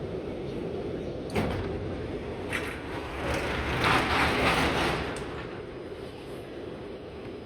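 Shanghai Metro Line 9 train's sliding doors closing at a station: a sharp knock about a second in, a lighter one soon after, then a loud rush of noise for about two seconds that dies away, over the steady hum of the standing train.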